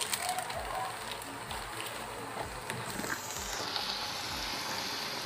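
Water spinach and tofu sizzling and simmering in a wok, a steady hiss with a few faint clicks.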